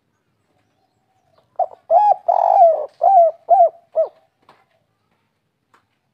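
Spotted dove (tekukur) cooing one song phrase of the 'kuk 3' type: a couple of short coos, a longer drawn coo, then three short coos at the end, starting about a second and a half in.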